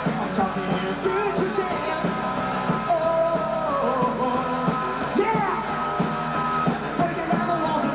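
Post-punk band playing a rock song with a steady drum beat, guitar and singing.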